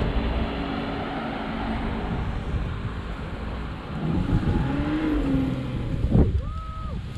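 Off-road 4x4 engine running under load on a sand dune climb, revving up and down, with wind buffeting the microphone.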